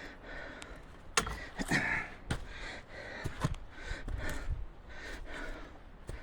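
A hiker breathing hard on an uphill climb, roughly one breath a second, with footsteps clicking on the rocky trail.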